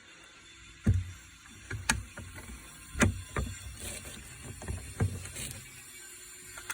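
A lock mechanism being reassembled by hand: a series of sharp clicks and knocks, about one a second, as the parts are fitted back into place.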